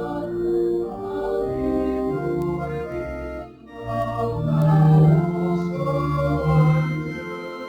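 Church organ playing a slow hymn in sustained chords, the notes changing about once a second.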